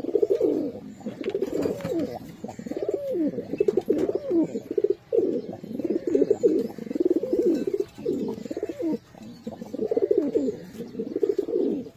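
Several pigeons cooing continuously, their low, warbling coos overlapping one another with only brief gaps.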